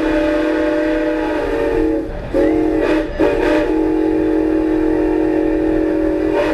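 Steam locomotive's chime whistle blowing for a road crossing. A long blast ends about two seconds in, a short blast follows, then a final long blast: the end of the long-long-short-long grade-crossing signal. The whistle is several steady tones sounding together as one chord.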